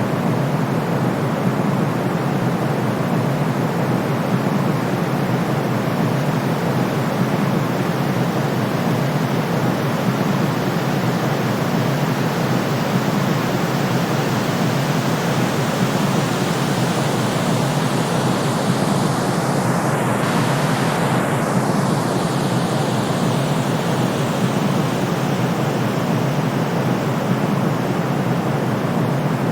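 Steady, even white-noise sleep sound, weighted toward the low end like pink noise, with a slight shift in the upper hiss about two-thirds of the way through.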